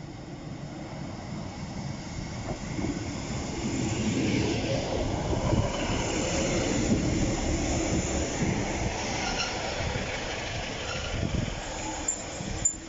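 Diesel passenger train passing over the level crossing, its rumble and wheel noise on the rails building to a peak mid-way and then easing off. A faint high wheel squeal comes in about two-thirds of the way through.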